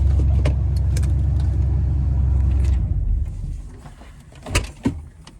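Low rumble of a truck moving over a rough dirt road, heard from inside the cab, that drops away about three seconds in as the truck slows. Two sharp knocks follow near the end.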